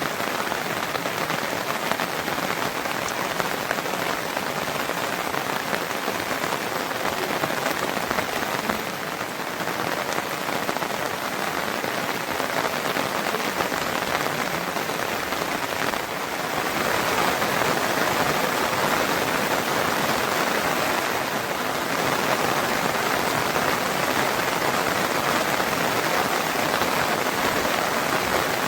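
Steady heavy rain falling and pattering on surfaces, a dense even hiss that grows a little louder about two-thirds of the way through.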